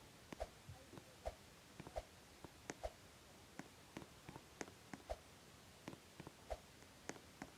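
Faint, irregular clicks and light taps, about two a second, some with a short ring to them.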